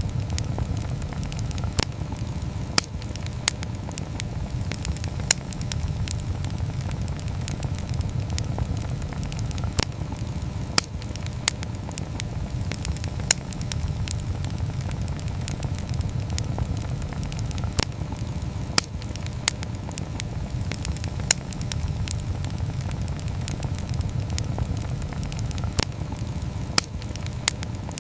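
Wood campfire burning: a steady low rumble of flames, with sharp, irregular crackles and pops every second or two.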